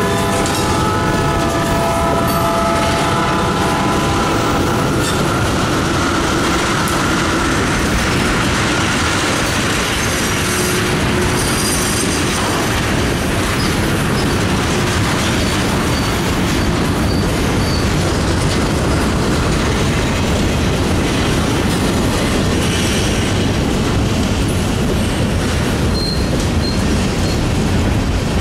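Freight cars of a local train rolling past close by, covered hoppers and a tank car, with a steady rumble and clatter of steel wheels on the rails. A chord of steady tones fades out about five seconds in, and faint brief high squeals come near the middle and near the end.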